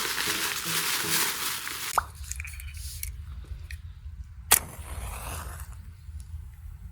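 Food sizzling in a hot frying pan over a campfire, with background music, cutting off about two seconds in. After that comes a quieter low rumble with a few sharp clicks, the loudest about halfway through.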